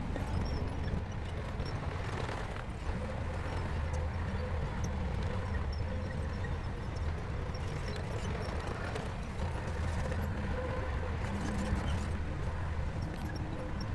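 Crawler bulldozer's diesel engine running steadily at working speed, with the clatter and knocking of its steel tracks.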